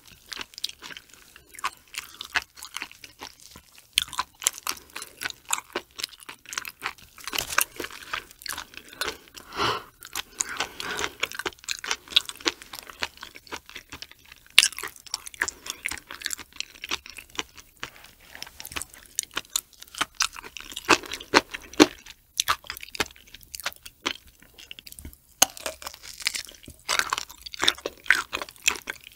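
Close-miked ASMR chewing of raw prawn meat: wet mouth sounds with many sharp, irregular little clicks and smacks.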